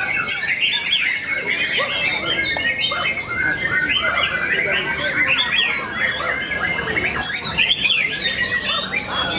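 Many songbirds singing at once: a dense, unbroken mix of overlapping chirps, whistles and trills.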